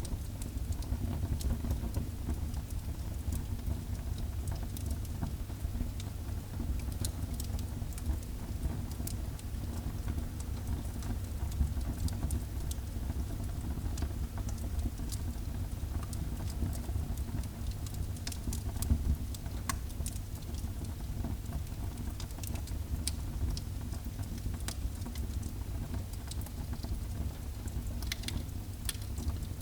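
Wood fire burning in a fireplace: a steady low rumble of flames with scattered crackles and pops, a few louder pops and a quick run of crackles near the end.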